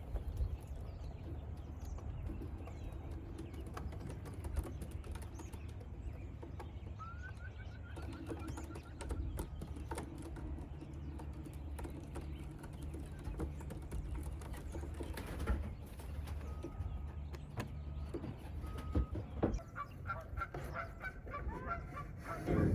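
Racing pigeons calling at the loft, with scattered sharp clicks and flutters over a steady low rumble of wind on the microphone.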